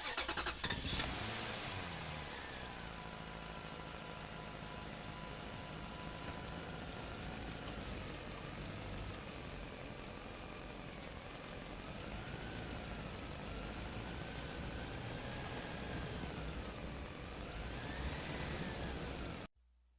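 Small electric motor running steadily, its whine wavering slowly up and down in pitch, then cutting off suddenly near the end.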